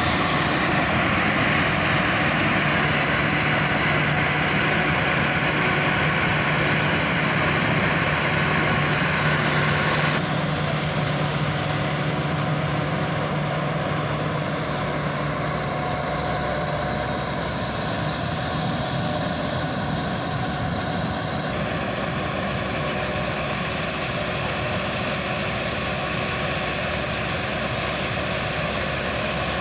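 Tractor engine running steadily under the load of paddy harvesting, a constant mechanical drone with a low hum. The sound changes abruptly about ten seconds in and again a little past twenty seconds.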